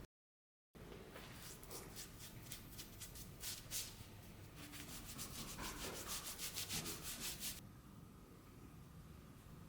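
Sandpaper rubbed back and forth by hand in quick, even strokes, about four a second, after a brief silent gap; the strokes stop about two seconds before the end.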